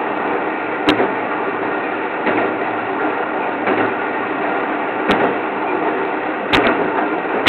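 Train running noise heard from inside the driver's cab: a steady rumble and hiss, with a few short sharp clicks.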